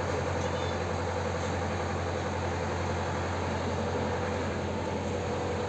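Steady, unbroken engine hum with a constant low drone.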